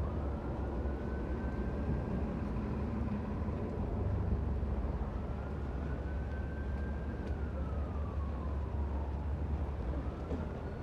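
Emergency vehicle siren in a slow wail, rising, holding and falling about every five seconds, over a steady low rumble.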